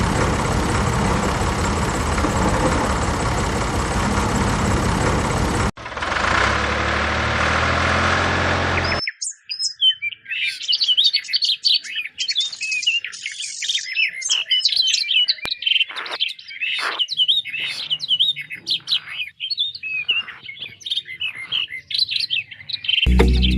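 A loud, steady rushing noise that cuts off abruptly about nine seconds in, followed by birds chirping and twittering in many short, quick calls.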